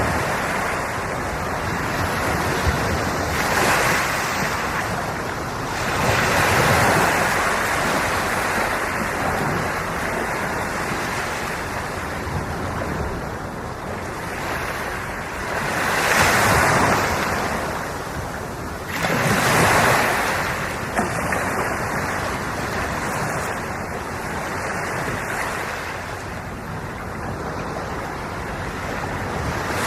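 Ocean waves washing onto the shore. The surf rises in several swells, strongest about 16 and 20 seconds in, over a steady rush of water and some wind on the microphone.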